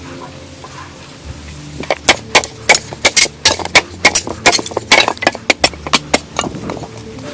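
A rapid, irregular series of sharp knocks, about four or five a second, starting about two seconds in and stopping near the end.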